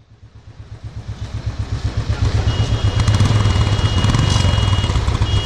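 Royal Enfield motorcycle engine running with an even, fast low pulse, fading in over the first couple of seconds. A thin, steady high tone joins about halfway through.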